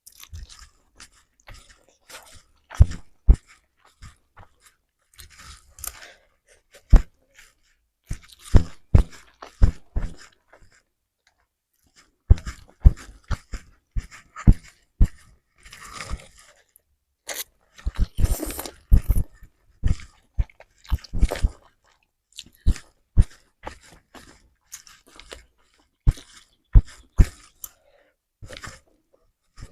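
Close-miked eating of fried instant noodles with rice: wet chewing and mouth smacks with irregular sharp clicks and short pauses between bites.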